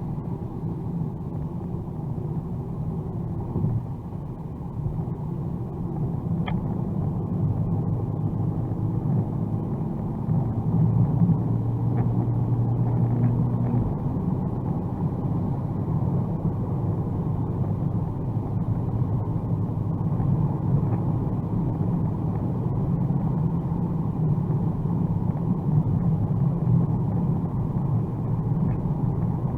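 Steady low rumble of a 2021 Mercedes-AMG A35's turbocharged four-cylinder engine, tyres and road noise while driving at Autobahn speed. About ten seconds in the rumble grows slightly louder, with a steadier engine drone for a few seconds.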